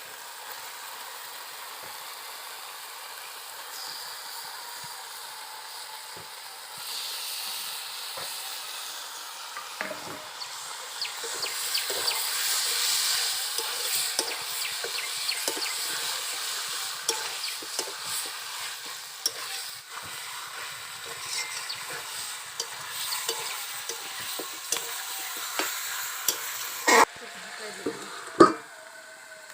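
Food sizzling as it fries in a pan, with a spatula stirring and scraping against the metal. The sizzle grows louder about seven seconds in and again around eleven seconds, and two sharper knocks of the spatula against the pan come near the end.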